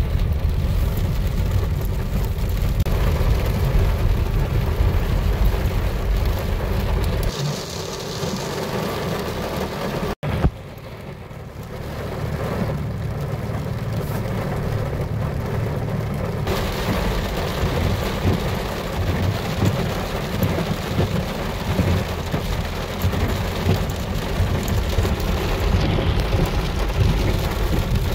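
Heavy rain pelting a car's windshield and roof, heard from inside the car, as a steady hiss over a low rumble. It breaks off abruptly about ten seconds in and comes back quieter, building up again.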